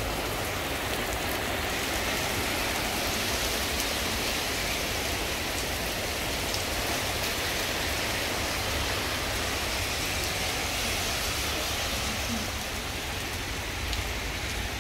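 Heavy rain pouring down in a steady hiss on the street and wet pavement.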